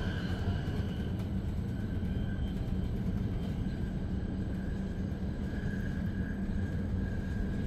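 Inside a Zürich S-Bahn double-deck train (Re 450 DPZ) running between stations: a steady rumble of the wheels on the track, with a steady high whine over it.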